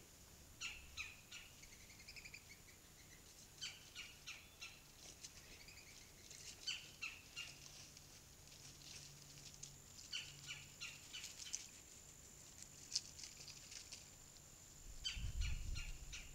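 Faint bird chirps: short sharp notes in quick clusters every few seconds, over a steady thin high whine. A low rumble comes in near the end.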